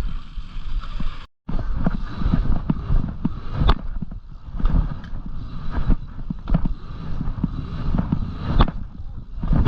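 Dirt jump bicycle being ridden over rough ground: steady rumble of wind and tyres on the microphone with repeated sharp knocks and rattles from the bike. The sound cuts out briefly just over a second in.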